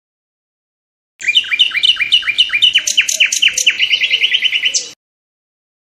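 A songbird singing a phrase of quick repeated down-slurred notes, about five a second, speeding into a faster trill near the end. It starts about a second in and cuts off abruptly about five seconds in.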